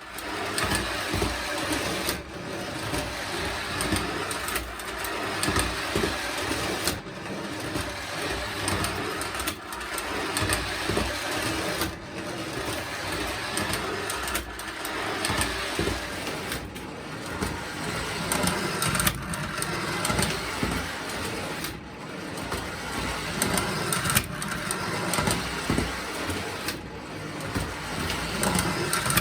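Postwar Lionel motorized reversing cars running on track: small electric motor and gears whirring, with wheels on the rails. The running is broken by a brief dip about every two and a half seconds, as the cars hit each other and the bumper mechanism reverses the motor.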